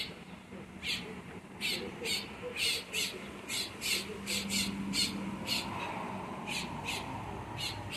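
A bird calling over and over: short, harsh high chirps, about two a second at an uneven pace.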